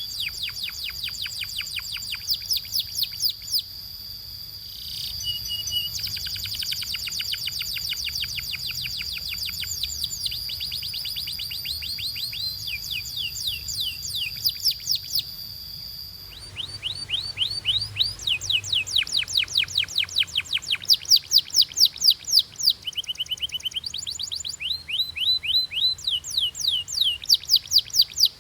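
Domestic canary singing long rapid trills of short downward-sweeping notes, with a steady high whistle held under them through the first half. About halfway through the song switches to louder, sharper trills.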